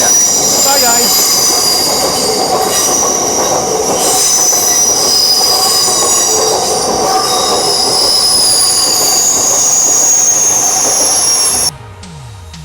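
An LNER Class 800 Azuma train passing, its wheels running on the rails with high-pitched wheel squeal. The sound cuts off sharply about a second before the end.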